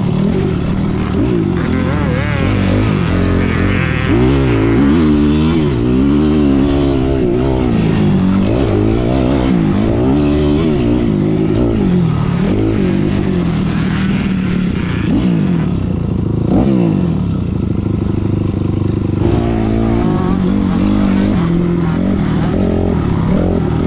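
Motocross dirt bike engines revving up and falling back again and again as the bikes accelerate, shift and brake around the track.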